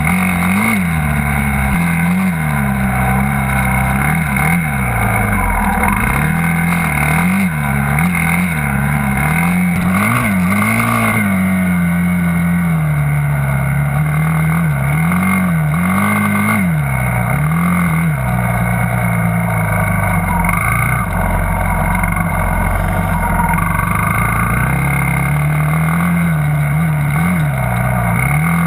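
Dirt bike engine running under load as it is ridden, its pitch rising and falling over and over as the throttle is opened and closed.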